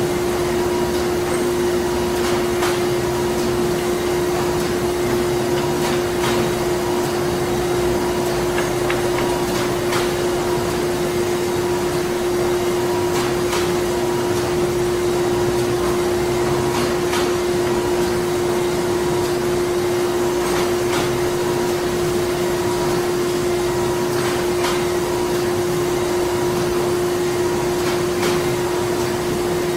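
Printing-plant machinery running steadily: a constant low drone over even machine noise, with light clicks at irregular intervals of a second or two.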